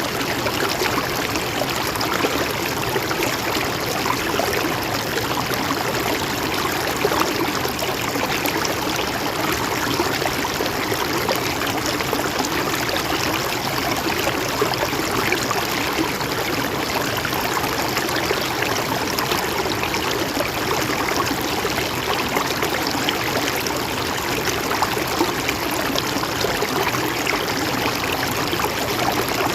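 Mountain stream flowing and trickling over rocks, a steady even rush of water.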